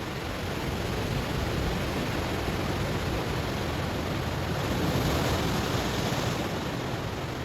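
Ocean waves washing onto a stony shore: a steady rush of surf that swells to its loudest, hissiest point about five seconds in, then eases off.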